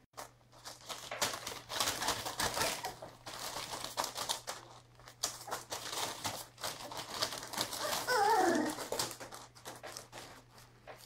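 Beagle puppy scrambling on a hard floor, with dense irregular clicking and scuffling, and one whine falling in pitch about eight seconds in.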